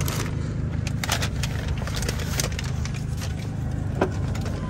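Honda City idling with a steady low hum, while a paper takeaway bag rustles and crackles as it is handled.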